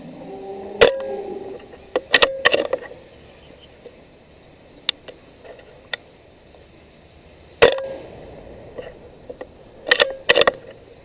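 Sharp cracks and clacks from a .22 Benjamin Marauder PCP air rifle being shot. A single crack comes about a second in and another about seven and a half seconds in, each followed a couple of seconds later by a quick cluster of two or three sharp clacks.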